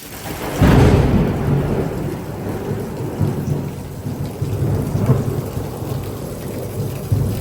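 A sharp thunderclap from a close lightning strike about half a second in, then thunder rumbling on over heavy rain.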